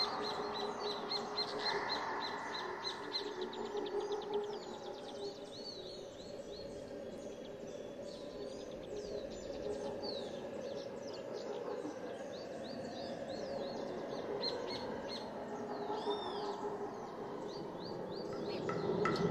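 Several small songbirds chirping and calling, starting with a fast trill of repeated high notes in the first few seconds, over a steady low background hum.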